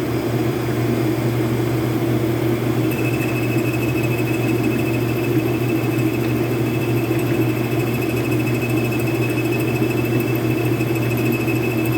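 Metal lathe running steadily with a low hum while turning a shell mill. A thin, steady high whine comes in about three seconds in and holds.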